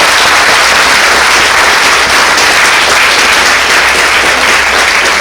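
Audience applause in a lecture hall: many people clapping steadily and loudly at the end of a talk.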